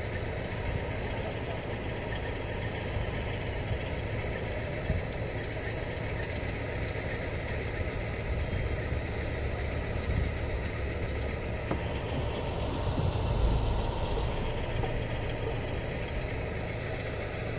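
Car engine idling with a steady low rumble, heard from inside the cabin, swelling a little about thirteen seconds in.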